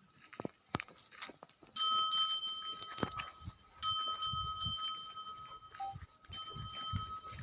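A bell-like ringing tone sounds three times, each lasting one to two seconds, with a few clicks and low grunting sounds in between.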